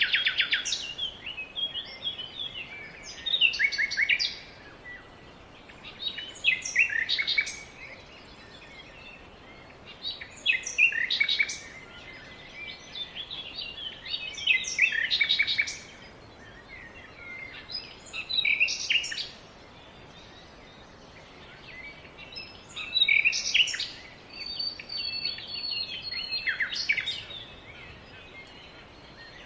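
A songbird singing short, repeated song phrases about every four seconds, each lasting about a second, over a faint steady background hiss.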